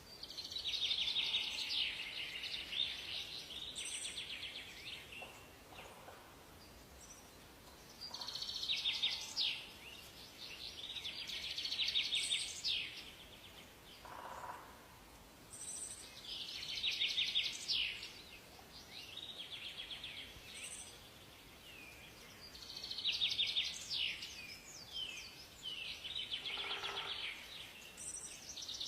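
Songbird singing in a forest: long, rapid trilled and warbling phrases of several seconds each, repeated four times with short pauses between, and a few brief higher notes from another bird over faint background hiss.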